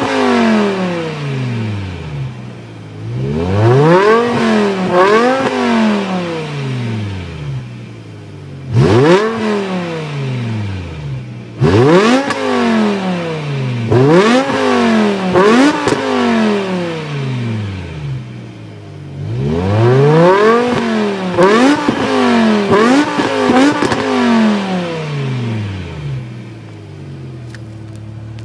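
BMW M6 engine through a Supersprint 4x80mm exhaust, revved over and over in quick rising blips that fall back to idle each time, in several bursts, then settling to a steady idle near the end.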